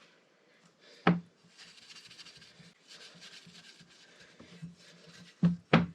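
Faint rubbing on a metal engine part, starting about a second and a half in, with a sharp knock near the start and two more near the end.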